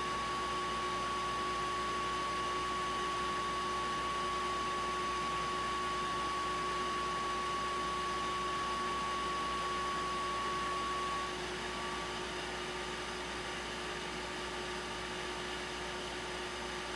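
A steady hum with a higher whine over a constant hiss; the whine stops about eleven seconds in while the lower hum and hiss carry on.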